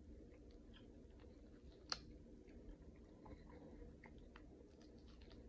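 Faint chewing and small wet clicks of a person eating seafood boil, with one sharper click about two seconds in.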